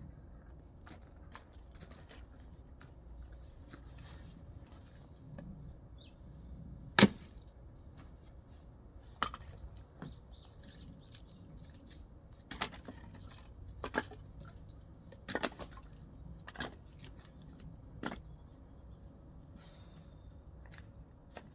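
Axe splitting firewood: a series of sharp chopping strikes on wood. The loudest comes about a third of the way in, and a run of strikes follows about every second and a half.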